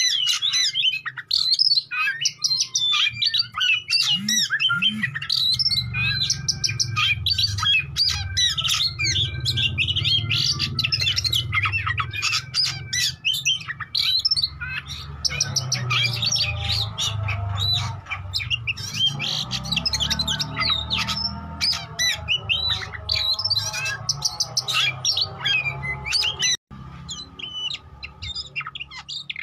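Oriental magpie-robin (kacer) singing continuously: a rapid, varied run of sharp chirps, whistles and harsh squawky notes, the kind of vigorous song used to provoke rival males into answering. A low hum runs underneath through most of the middle.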